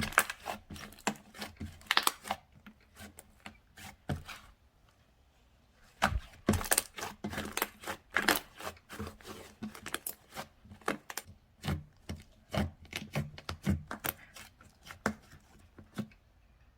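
Slime being squeezed and poked by hand: a run of sharp, irregular clicks and crackles that pauses for a moment about four seconds in, then resumes.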